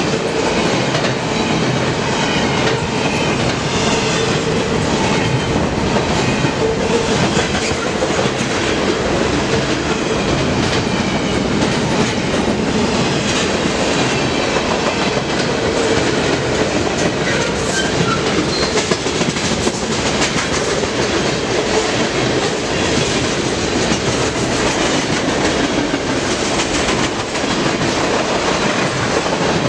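Train cars rolling past at close range: a steady rumble with the clickety-clack of wheels over rail joints.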